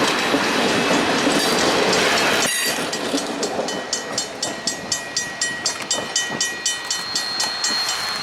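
A train passing close on jointed track: a loud rush for the first two and a half seconds, then it drops sharply and the cars' wheels click over the rail joints about three times a second, with a faint steady high ring above the clicks.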